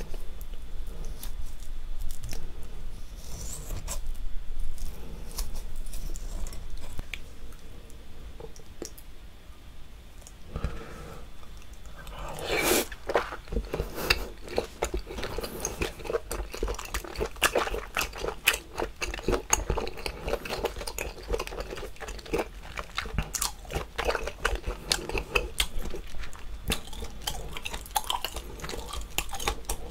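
Close-miked chewing of boiled octopus dipped in sauce: wet, chewy mouth sounds with many small clicks and squelches, growing busier and louder a little before the middle.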